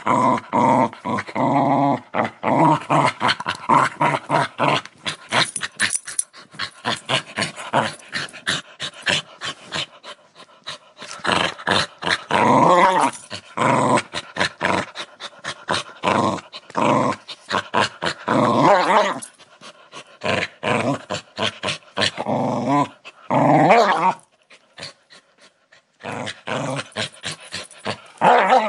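Dogs growling in long, rough, rumbling bouts with short pauses between them, broken by a brief lull about three quarters of the way through.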